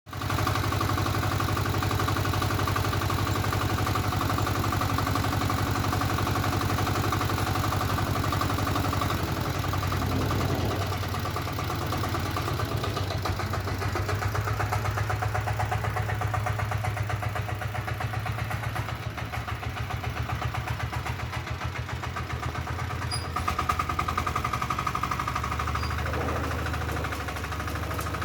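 Diesel walk-behind tractor engine running with a rapid, even firing beat, its speed and load shifting a few times: a little lower about a third of the way in, quieter for a few seconds past the middle, then louder again.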